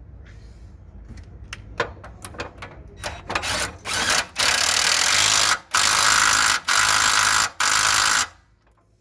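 Power tool run in a few short bursts and then four longer bursts of about a second each with brief pauses between, driving home the mounting bolt of a Suzuki Jimny's rear-axle Panhard rod. Scattered clicks and knocks of tools come before it.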